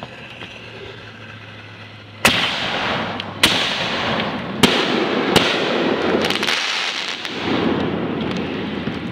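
Aerial firework shells bursting: a loud sharp bang about two seconds in, then three more reports over the next three seconds. Each is followed by a long rolling rumble that carries on after the last one.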